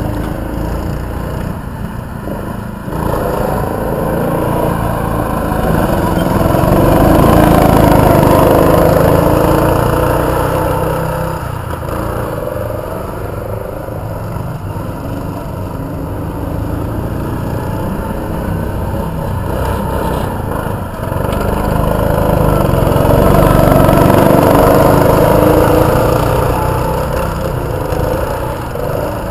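Mini sprint car engines running at racing speed, the loudness swelling and fading twice, peaking about 8 seconds and 24 seconds in.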